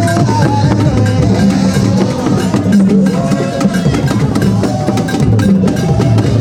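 Music with busy drumming and percussion keeping a steady rhythm, with pitched melodic lines over it.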